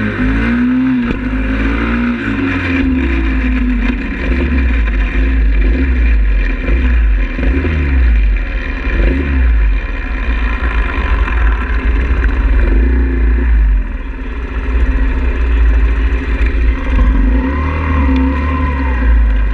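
Pit bike engine running under way, its pitch rising and falling as the throttle is worked. A heavy low rumble of wind buffets the microphone throughout.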